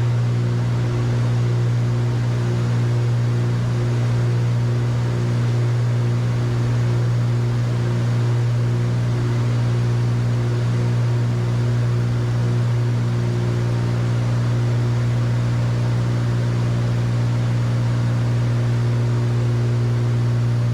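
The twin piston engines and propellers of a Cessna 310Q droning steadily in cruise flight, heard from the cockpit: a strong low hum with a slow, regular pulsing in the tones above it.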